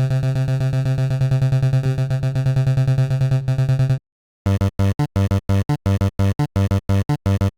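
Synthesized 8-bit buzzing tone standing in for a motorcycle engine: a steady, quickly pulsing buzz for about four seconds, then after a short break the same tone chopped into quick bursts about four a second.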